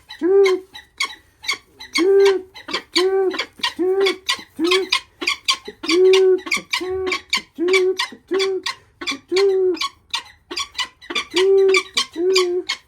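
Imprinted falconry bird of prey calling repeatedly and insistently, a short wailing call about one and a half to two times a second, typical of an imprint's food-begging.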